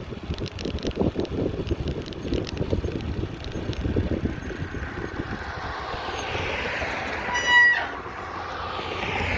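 Street traffic heard from a moving bicycle: low wind rumble on the microphone and light rattles, then a vehicle swelling past. About three-quarters through comes one short, loud beep, the loudest moment.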